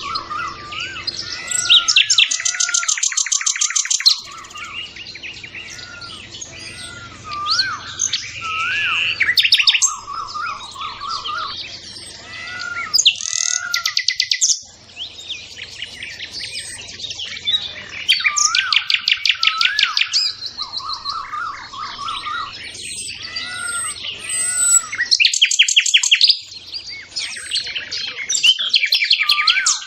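Several songbirds singing and calling together: fast rapid-fire trills, repeated short whistled notes and buzzy phrases, overlapping one another.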